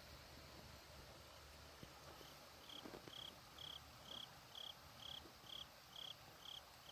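Faint cricket chirping: short, evenly spaced high chirps about twice a second, starting about two seconds in.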